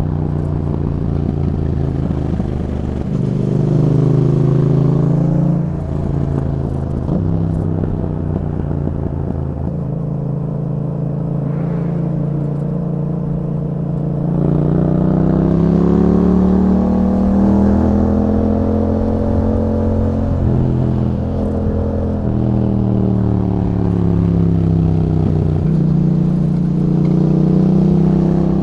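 2021 Yamaha MT-07's parallel-twin engine breathing through an Akrapovic exhaust with a dB killer fitted, under way. The revs rise and fall repeatedly with gear changes and throttle, including a long climb in pitch about halfway through that then falls away.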